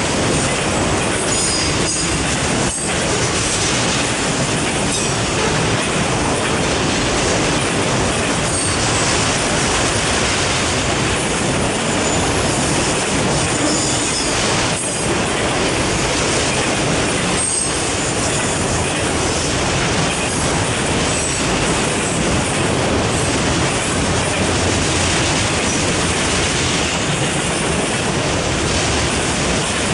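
A freight train of enclosed autorack cars rolling past close by: a steady, loud rumble of steel wheels on rail, with clacking and now and then a brief, faint high wheel squeal.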